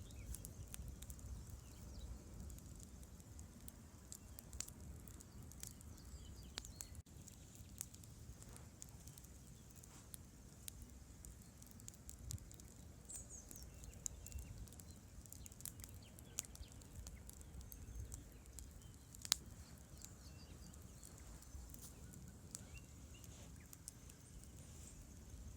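Campfire crackling: scattered sharp pops and snaps at irregular intervals over a low steady rumble, with one louder pop about nineteen seconds in.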